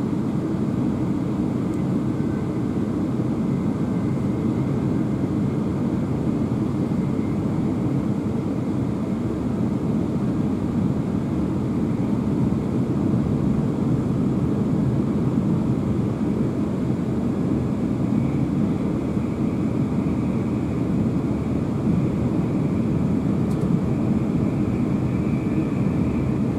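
Inside a Class 350 electric multiple unit running at speed: a steady low rumble of wheels on rails and running gear, with a faint high whine coming in during the second half.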